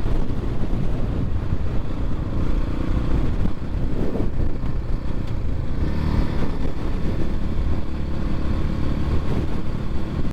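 X-Pro Templar X 250 dirt bike engine running steadily under way, heard from the moving bike.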